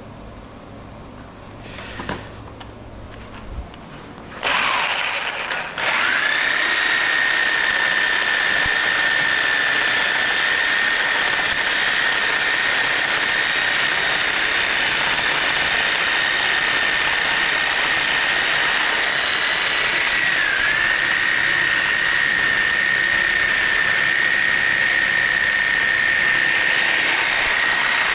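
An electric power tool starts up about four and a half seconds in and runs steadily with a high whine. Its pitch dips briefly about twenty seconds in as it takes load. A few faint clicks come before it starts.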